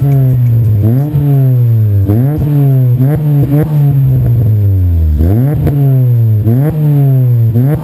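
Acura Integra GSR's 1.8-litre DOHC VTEC four-cylinder engine being revved in quick repeated blips. The pitch jumps up and sags back about once a second.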